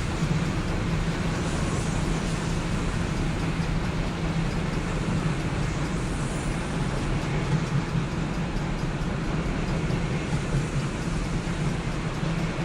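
Steady vehicle noise: a continuous rumble with a constant low drone, unchanging throughout.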